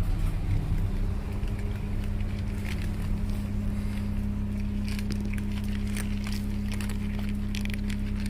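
A steady, low mechanical hum, like a small motor running, starting about a second in, with scattered clicks and crackles over it in the second half.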